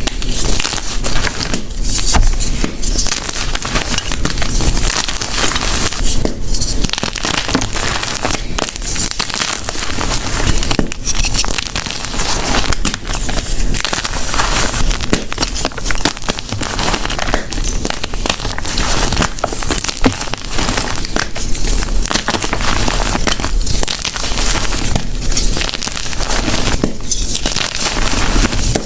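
Soft blocks of gym chalk being crushed, a dense steady crunching and crackling with brief lulls every few seconds.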